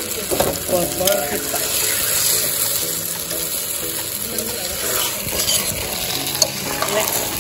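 Chilli chicken sizzling in a wok while a metal ladle stirs it, scraping and knocking against the pan, with one sharp clink about six seconds in.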